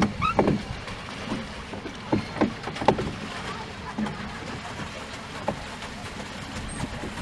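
Water splashing and lapping against the bow of a small pleasure boat moving across a pond, with a few short knocks.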